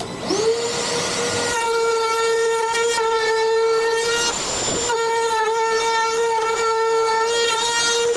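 An electric power tool's motor spins up with a quick rising whine, then runs at a steady high whine, broken a little past halfway by a brief rushing noise before the whine returns.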